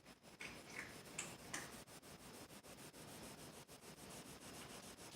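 Faint scratching of a colored pencil stroking across paper: a few soft strokes in the first couple of seconds, then quieter rubbing.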